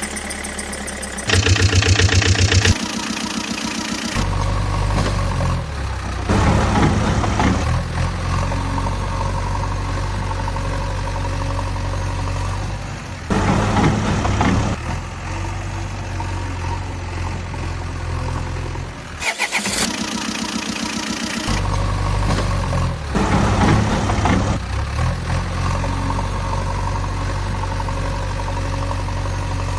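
Engine starting, then idling steadily, with louder surges of revving that come back every several seconds.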